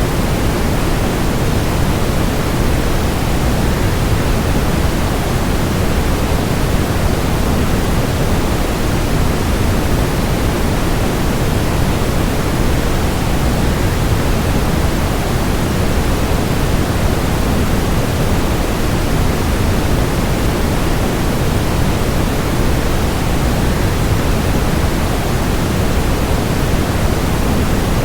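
Waterfall: a steady, unchanging rush of falling water, heavier in the low end than the high, played as sleep noise.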